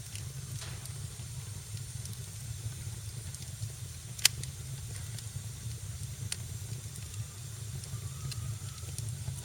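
Wood fire crackling in a fireplace: a steady low rumble and hiss with scattered sharp pops, one much louder than the rest about four seconds in.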